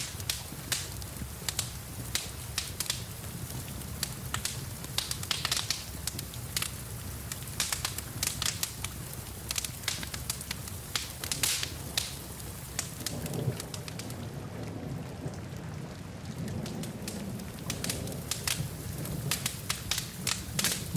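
Wood fire crackling with frequent sharp pops over the steady hiss of falling rain.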